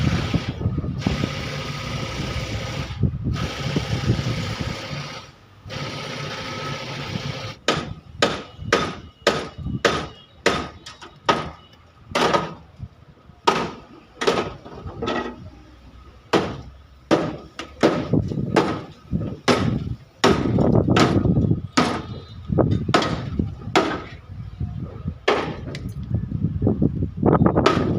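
Hammer blows on the accident-damaged metal body of a Tata truck during denting repair: a long run of sharp, irregular strikes about one or two a second. This follows several seconds of steady noise at the start.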